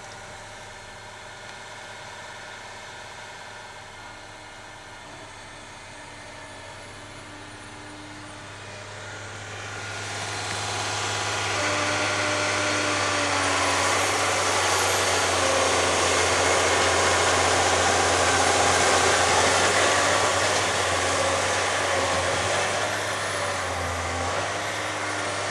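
Madill 2200 feller buncher running at idle with a steady low hum. About ten seconds in, a much louder rush with a high whine builds over a few seconds, holds, and eases off a little near the end.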